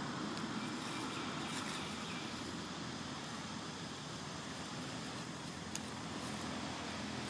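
Steady outdoor background noise with a low hum, and a single faint click near the end.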